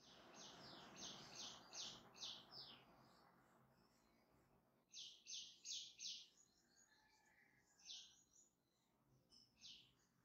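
Faint chirping of a small bird in quick runs of short, high chirps, then single chirps further apart. A soft rustle underlies the first few seconds.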